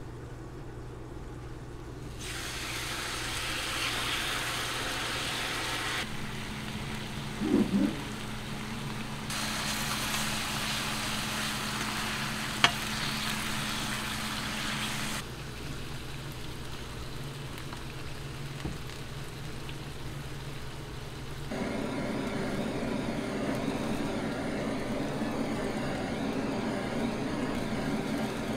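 Food frying on a hot cooking surface, sizzling steadily through several spliced stretches whose hiss changes abruptly at each cut. There is one sharp click about halfway through, and a steady hum joins for the last quarter.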